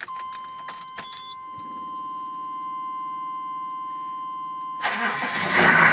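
A dashboard warning chime sounds as one steady electronic tone while the ignition is switched on, with a low rumble joining underneath about a second and a half in. Near five seconds the tone stops and the Holden Suburban's engine is cranked, fires and settles into running, louder than the tone.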